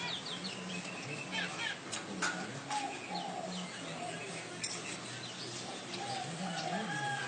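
Manyar (weaver bird) singing: a busy run of short chirps, quick gliding notes and sharp ticks, with a low hum underneath.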